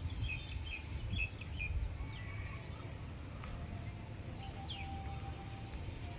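Small birds chirping in short, high calls, bunched in the first two seconds with another brief falling call near five seconds, over a steady low rumble.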